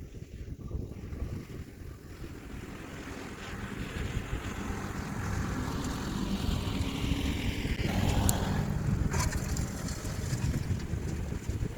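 Kioti DK4710SE tractor's diesel engine running steadily while pulling a landscape rake, with wind noise on the microphone. The engine grows louder about four seconds in, and two sharp knocks come about a second apart later on.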